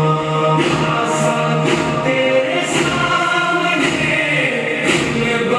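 Music with a group of voices singing together in a chant-like song.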